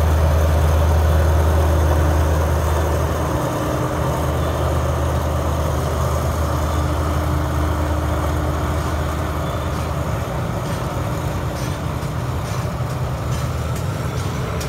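Alsthom diesel-electric locomotive running as it hauls a freight train away. Its low engine drone weakens after a few seconds and fades, leaving the steady rumble of the wagons rolling past on the track, with a few wheel clicks near the end.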